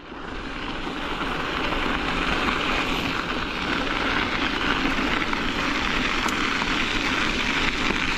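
Steady rushing of strong wind over the microphone while cycling, coming in at the start and swelling over the first couple of seconds.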